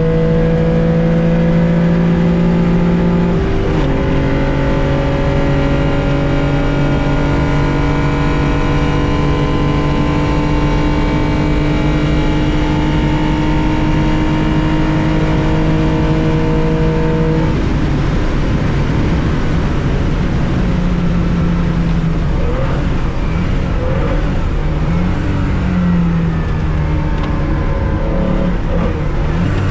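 Onboard sound of a 1965 Porsche 911 2.0's air-cooled flat-six at full throttle, its note climbing slowly through the gear after a quick upshift about three seconds in. About halfway through the engine comes off the throttle. After that it runs rougher, with short rises and falls in revs.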